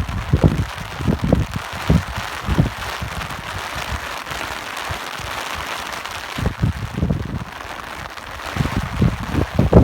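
Steady rain hiss with irregular gusts of wind buffeting the microphone in low thumps. The gusts are strong in the first couple of seconds, ease off through the middle, and pick up again near the end.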